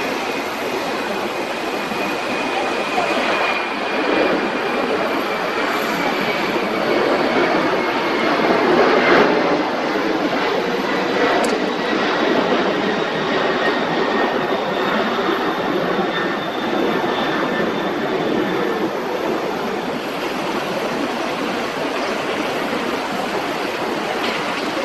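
Jet engines of a Boeing 767 freighter passing on the runway: a steady, loud rush of engine noise with a thin whine that slowly falls in pitch.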